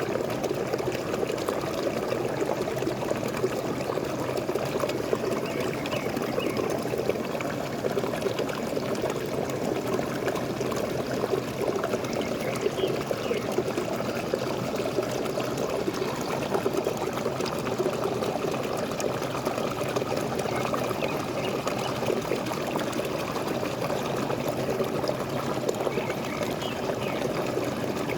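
Waterfall: falling water pouring and splashing in a steady, unbroken rush.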